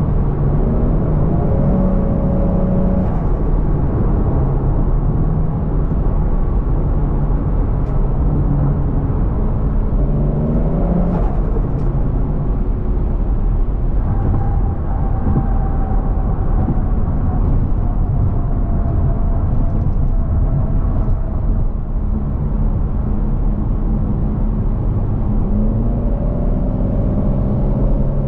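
Turbocharged 1JZ-GTE VVTi inline-six in a Scion FR-S running under way. The engine note climbs about ten seconds in, eases slowly down, and climbs again near the end.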